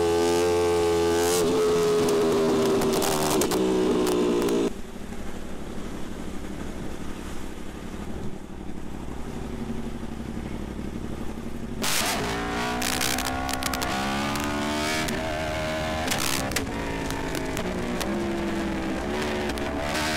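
Yamaha R1M superbike's crossplane inline-four engine running under throttle, its pitch rising and falling. It drops to a quieter, rougher sound for several seconds in the middle, then the changing engine note returns.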